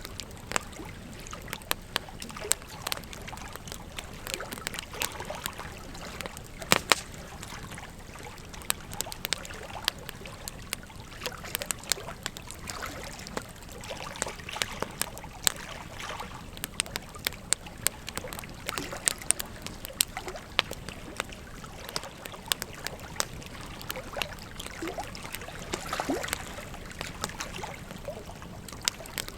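Wood fire crackling, with frequent irregular sharp pops and snaps, a pair of loud ones about seven seconds in, over the steady rush of a flowing river.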